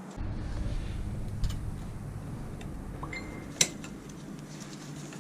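Hands handling metal tools and parts, with low rubbing and rustling and a single sharp metallic clink about three and a half seconds in.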